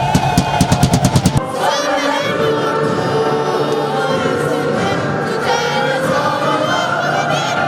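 A quick run of drum beats for about the first second and a half, then a large crowd of football supporters singing a chant together in unison.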